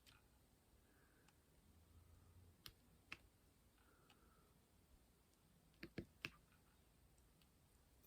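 Near silence with a few faint, sharp clicks and taps, two single ones and then a quick cluster of three about six seconds in: a diamond-painting pen pressing drills onto the canvas.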